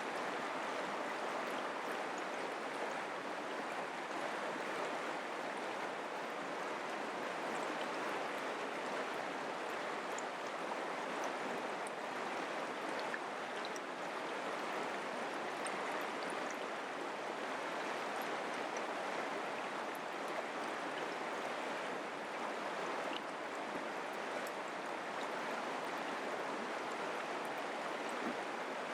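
Mountain creek flowing over rocks: a steady rush of water.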